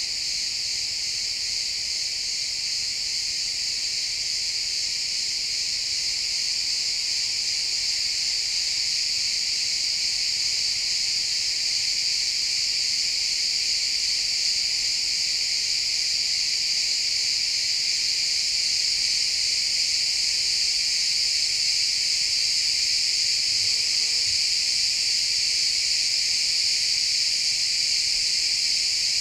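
A dense chorus of many crickets chirping together, a continuous high-pitched trill with no breaks.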